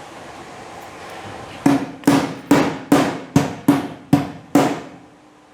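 Hammer blows on metal: eight sharp strikes in an even rhythm, a little over two a second, each with a short ringing tone.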